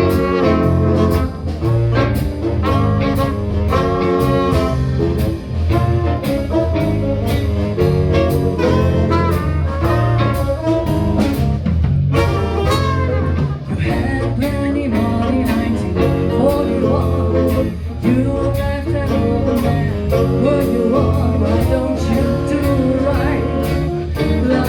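Live band playing an instrumental passage of a jazzy blues number, with a steady beat of drum hits under pitched instrument lines.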